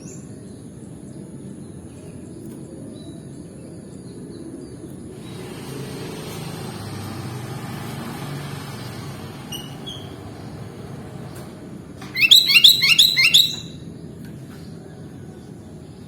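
A sooty-headed bulbul (kutilang) gives a loud burst of about six quick chirping notes about twelve seconds in. Underneath, a steady low background rumble swells for a few seconds in the middle.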